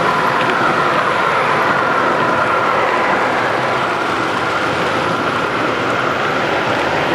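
Model train running on a layout: a steady rolling whir with a faint wavering whine, against the general noise of an exhibition hall.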